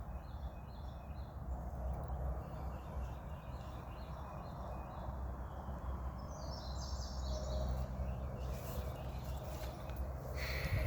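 Songbirds singing: a run of short, quickly repeated chirps, then a higher, faster trill about six seconds in, over a steady low rumble.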